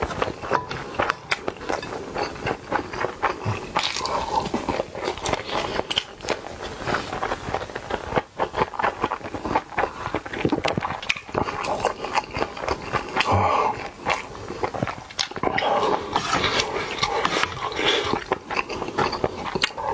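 Close-up chewing of a mouthful of bibimbap (mixed rice): irregular smacking and clicking mouth sounds with no pause.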